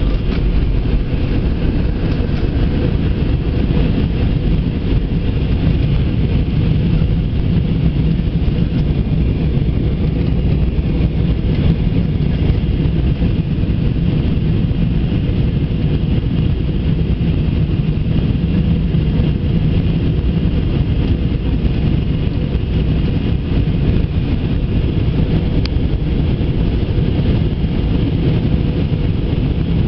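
Steady cabin roar of an Airbus A320 airliner in flight: engine and airflow noise, deep and even throughout.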